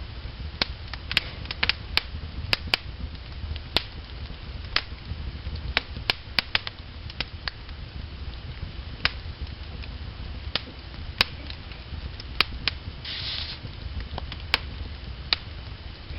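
Logs burning in a fireplace, crackling with irregular sharp pops over a steady low rumble. There is a short hiss a little past two-thirds of the way through.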